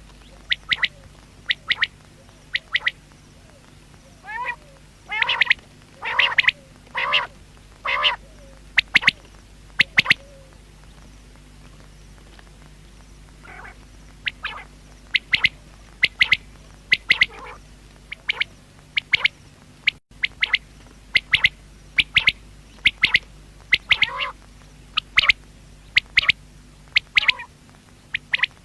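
Common quail (batair) calling: short, sharp notes repeated in quick groups, with a run of longer, lower calls about a quarter of the way in and a short pause near the middle. A steady low hum runs under it.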